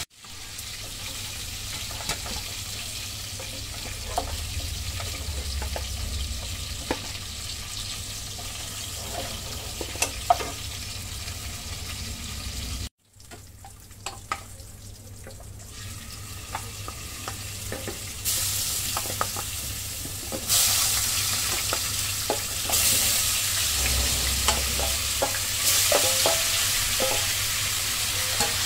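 Hot oil sizzling in a non-stick kadai as marinated chicken fries, with a spatula scraping and clicking against the pan. The sizzle cuts off sharply about halfway, comes back, and grows louder in steps in the second half.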